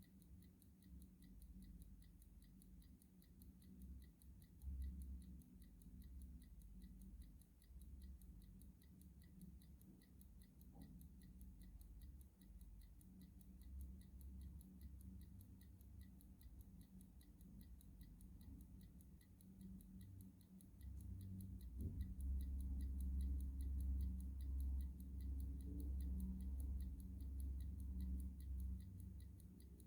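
Clock ticking steadily at an even pace, faint, over a low rumble that grows louder in the second half.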